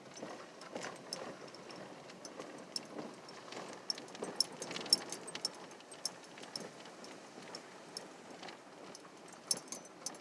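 Keys hanging from the ignition jingling with sharp, irregular clinks as the car rolls slowly over a rough road, over the low hum of tyres heard inside the cabin.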